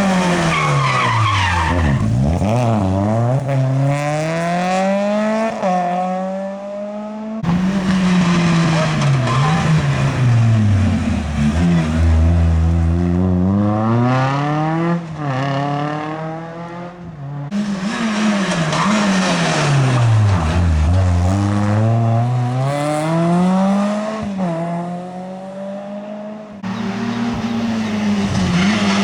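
Rally car engines at full attack, the revs climbing hard through quick gear changes and then dropping away as the driver lifts and brakes. The sound cuts abruptly from one car to another three times.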